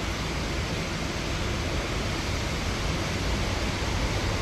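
Steady rush of a thunderstorm's heavy rain and wind, with wind buffeting the microphone.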